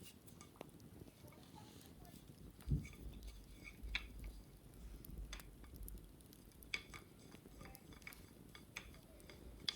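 Light, scattered taps and clicks of wicker baskets being handled and cleaned, with one dull thump about three seconds in.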